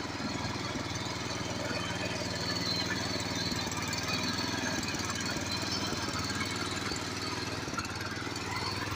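Tractor engine running steadily at an even speed, with a fast, even pulse of firing strokes.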